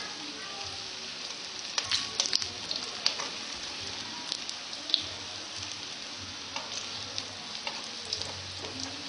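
Bananas frying in hot oil in a metal wok, a steady sizzle, with sharp clicks of metal tongs against the wok as the pieces are turned, several about two to three seconds in and a loud one near five seconds.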